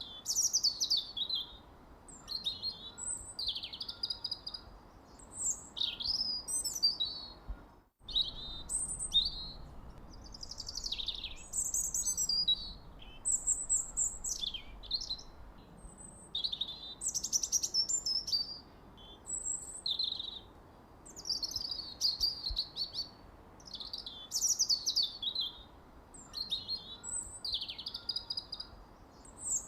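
Songbirds chirping and singing: a continuous run of short, high, quickly sliding and warbling notes, with a brief gap about eight seconds in.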